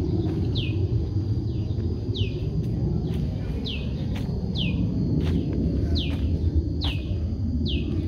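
A songbird repeating a short high whistle that falls in pitch, a little more than once a second, over a steady low rumble.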